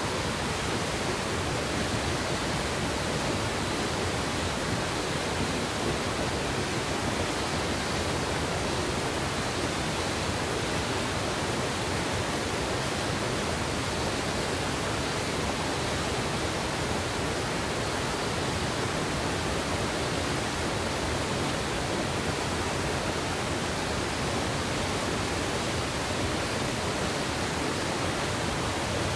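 Mountain river water rushing: a steady, even rush with no breaks.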